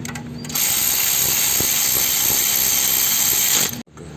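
Power ratchet running for about three seconds, a loud steady hiss that cuts off suddenly, driving in the wheel speed sensor bolt.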